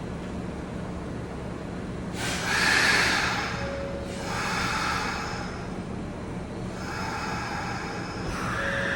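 Kintetsu electric train standing at the platform, with a steady low electrical hum and several hissing bursts of air, the first about two seconds in being the loudest.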